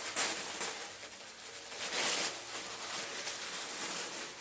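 Wrapping paper rustling and crinkling as a present is unwrapped by hand, with two louder surges, one just after the start and one about two seconds in.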